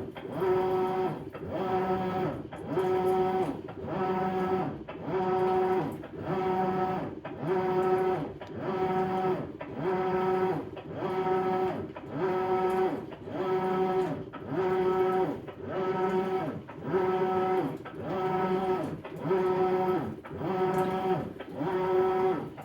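Maytag Bravos XL top-load washing machine agitating, its drive motor whining up and down with each reversing stroke of the wash plate, about one stroke every second and a half, in an even, steady rhythm.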